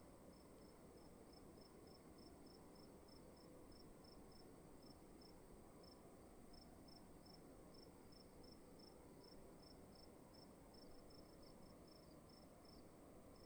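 Faint cricket chirping, short chirps repeating steadily at about three a second, over a steady high whine and a soft low hiss.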